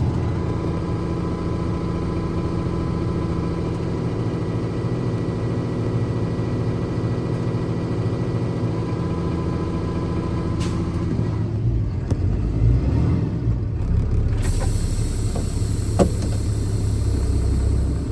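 Ford F650 medium-duty truck engine running steadily with an even hum. About ten seconds in it changes to a lower, uneven rumble with a few sharp knocks, and a hiss joins near the end.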